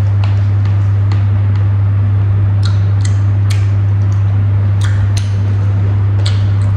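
Eating by hand: scattered short clicks and smacks of chewing and of fingers working rice and boiled pork, irregularly spaced, over a loud, steady low hum.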